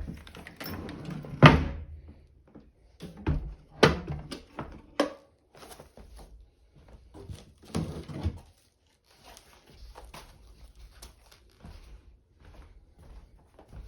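Unpacking sounds: irregular knocks and thuds as parts and packing are handled and set down. The heaviest thuds come in the first half, followed by a quieter scatter of small clicks and rustling.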